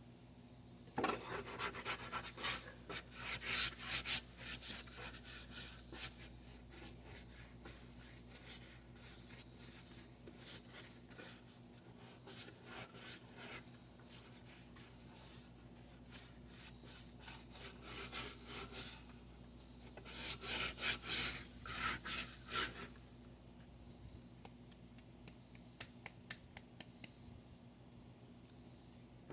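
A stiff brush scrubbing caked grass off the underside of a Toro 22-inch mower's metal deck, in rapid rasping strokes. The scrubbing is heavy for the first few seconds and again in two spells about two-thirds of the way through, with lighter brushing in between.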